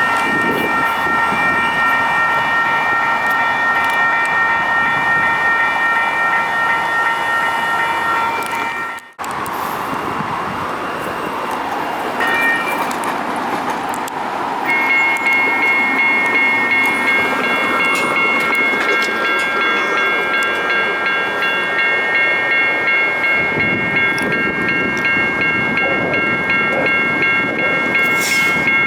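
Railroad crossing warning bell ringing in rapid repeated strokes over the rumble of a passing light rail train. The ringing breaks off abruptly about nine seconds in, and a bell starts ringing again near fifteen seconds and keeps going.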